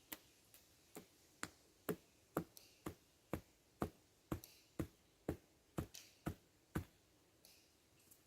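A peg being hammered into the ground: about fifteen sharp, even strikes, roughly two a second, that stop about seven seconds in.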